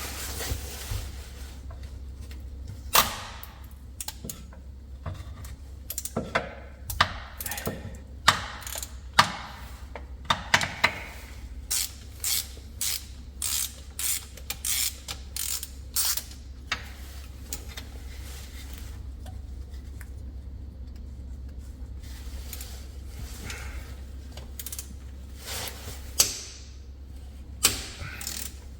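Hand ratchet wrench clicking in short runs of strokes, with pauses between, as it turns a bell housing bolt on a Subaru STI.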